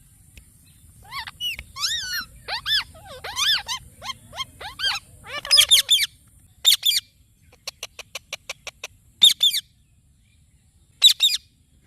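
Indian ringneck parrot chirping and whistling in a string of curving, pitched calls. A little past the middle it gives a quick run of about a dozen short ticking notes, then two loud harsh squawks, the last near the end.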